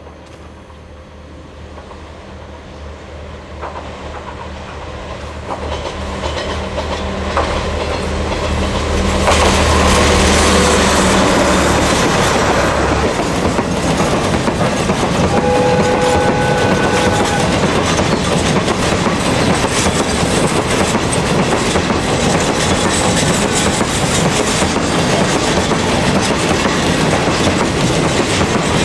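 Diesel-hauled freight train approaching and passing close by. A low engine drone grows louder over the first ten seconds, then the wagons' wheels clatter over rail joints in a steady loud rush. A short tone sounds briefly about halfway through.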